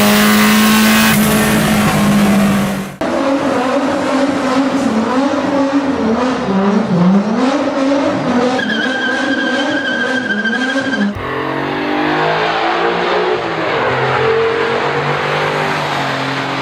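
Four-cylinder car engines running and revving in a string of edited clips, cutting abruptly about three seconds in and again about eleven seconds in. The engine pitch rises and falls with the throttle, and a steady high whine comes in during the middle clip.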